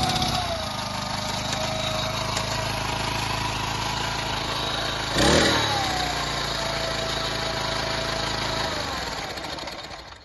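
Honda FF300 Salad mini tiller's small gasoline engine running, dropping back to a lower idle just after the start, briefly revving a little past halfway, then shut off and dying away near the end.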